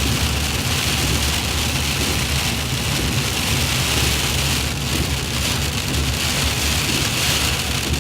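Steady hiss of freezing rain on a moving car, over the low rumble of the engine and tyres on the road, heard inside the cabin.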